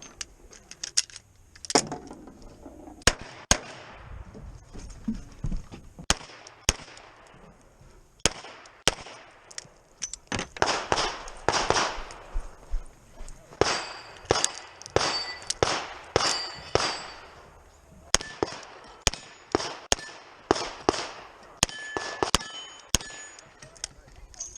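Revolver gunfire in quick strings of shots, with steel targets clanging and ringing when hit, several times late in the string.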